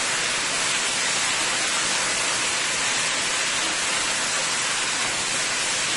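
Chicken pieces sizzling steadily as they fry in a pot on the stove.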